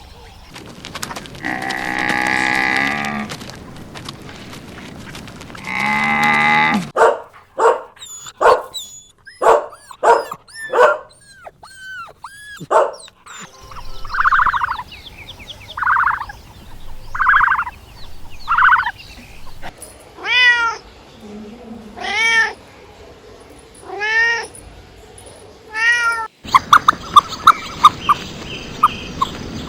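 Cat meows in a run of short cut-together clips. First come two long drawn-out calls, then a quick string of short cries. After that, single meows rise and fall in pitch about two seconds apart. Near the end the calls give way to a noisier scene with sharp clicks.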